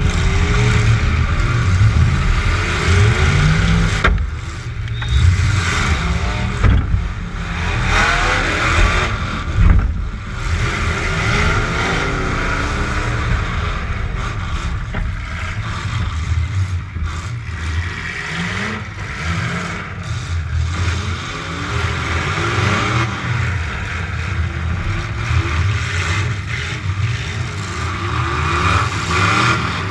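Demolition derby truck engine revving up and down, pitch rising and falling repeatedly, with a few sharp knocks of metal impacts, one about four seconds in and a louder one about ten seconds in.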